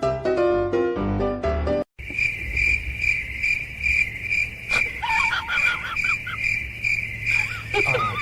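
Keyboard music that cuts off about two seconds in, followed by insects chirping in a steady, even pulsing trill. Short wavering calls come over the trill around the middle and again near the end.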